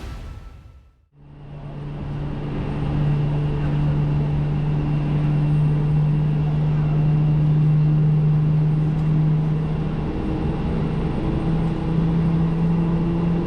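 Aircraft engines running with a steady low hum over a rushing noise, the pitch rising slightly near the end.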